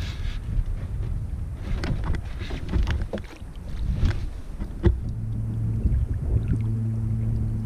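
Knocks and rattles of gear against a kayak hull amid wind noise on the microphone, then a steady low hum from about five seconds in.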